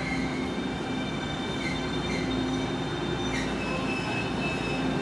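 Taiwan Railway passenger train moving at the platform: steady wheel and running noise with high, thin squealing tones from the wheels.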